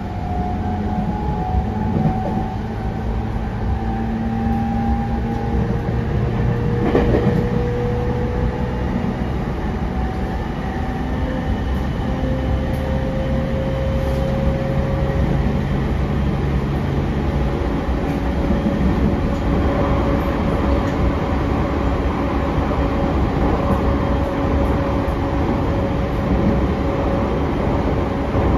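Running sound inside a JR East E231-0 series electric commuter train: a steady rumble of wheels on rail with the traction motors' whining tones drifting slowly in pitch. A single knock comes about seven seconds in.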